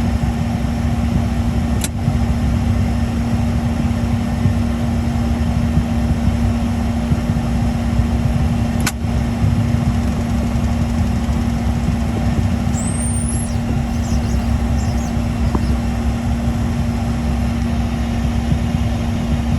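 Learjet 60 jet engines at taxi idle: a steady low rumble with one constant hum. Two faint clicks come about two and nine seconds in.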